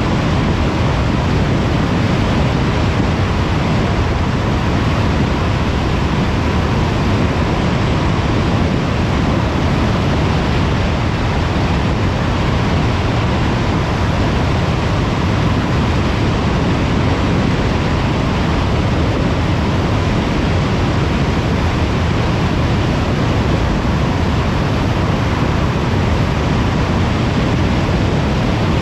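Steady road noise of a car cruising on a motorway: an even rush of tyre and wind noise that does not change, with a faint steady hum.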